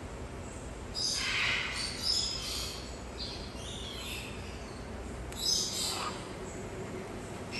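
Birds calling: clusters of short, high calls about a second in, again around three to four seconds, and once more near six seconds.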